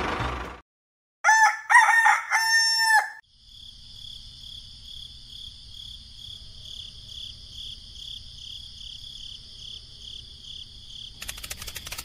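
A rooster crows once, loud, about a second in. After it a steady high pulsing trill, two or three pulses a second, runs over a low hum, and a rattling crackle starts near the end.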